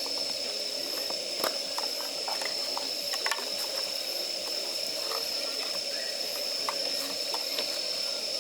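Campfire of damp firewood burning: a steady hiss with scattered small crackles and pops as moisture boils out of the wood. A faint steady high-pitched tone sits under it throughout.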